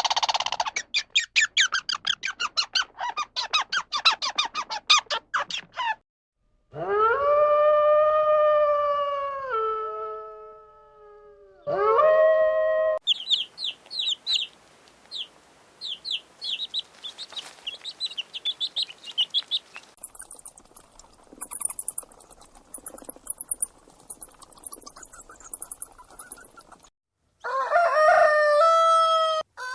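A run of different animal calls one after another. First comes a fast chattering rattle for about six seconds. Then there are long, drawn-out crowing calls, stretches of high bird chirping, and another crowing call near the end.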